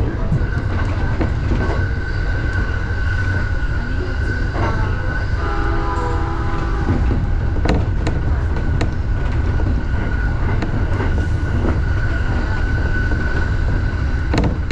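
Electric commuter train running, heard from inside the driver's cab: steady rumble with a thin high whine, and a few sharp clicks from the wheels on the track. About five seconds in a brief chime of several stepped tones sounds.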